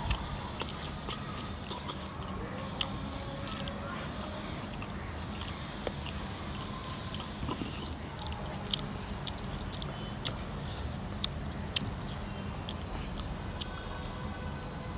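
Close-miked chewing and biting of food, with scattered sharp wet clicks and small crunches from the mouth over a steady low hum.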